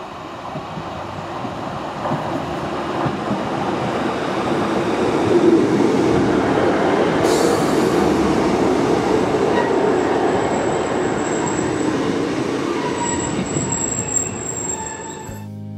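Class 150 diesel multiple unit running through the station: wheel and rail rumble builds to a peak about five seconds in, then slowly fades. Thin, high wheel squeal comes through in the second half.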